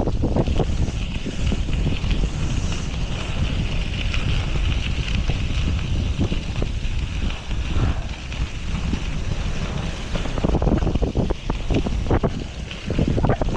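Wind buffeting the microphone of a rider on a moving bicycle: a loud, gusting rumble with a steady hiss above it.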